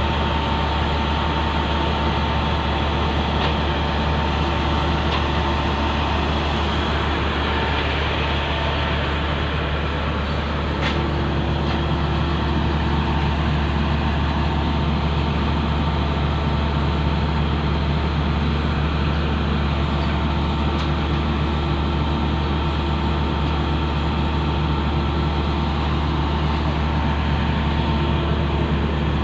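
A heavy diesel engine running steadily, a constant drone that changes tone slightly partway through.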